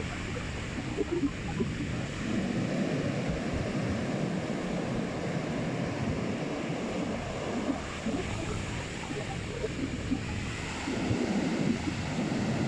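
Monsoon-season sea surf washing ashore continuously, with wind on the microphone; the surge swells louder about two seconds in and again near the end.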